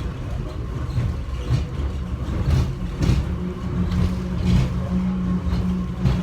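Airport subway people-mover train running, heard from inside the car: a steady low rumble with light clacks every second or so. A steady low hum sets in about halfway through as the train nears the station.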